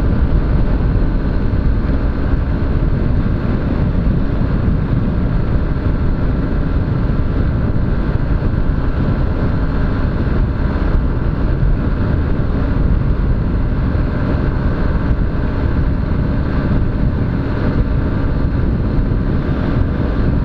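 Honda CG 125 Fan motorcycle riding at a steady pace: its single-cylinder engine running under a steady low rumble of wind on the action camera's microphone.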